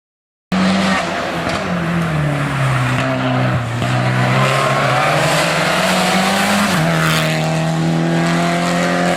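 Hill-climb race car engine running hard, cutting in abruptly about half a second in. Its pitch sinks over the first few seconds, then steps up higher about two-thirds of the way through.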